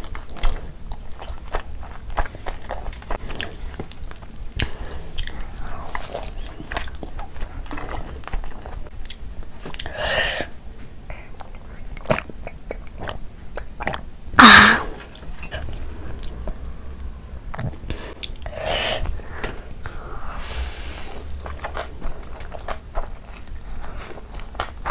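A person chewing and biting food up close: a steady run of wet mouth clicks and smacks. A few louder sudden sounds stand out, the loudest about halfway through.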